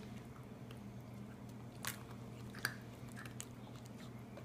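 Faint crunching and clicking of gingerbread and candy being bitten and chewed, with two sharper crunches about two seconds in, over a steady low hum.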